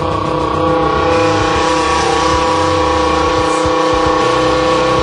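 Mouth-made imitation of a V10 Lamborghini engine: tongue vibration, voice and a blown beer can combined into a buzzing, engine-like drone held at a steady pitch. A hissing edge joins it about a second in.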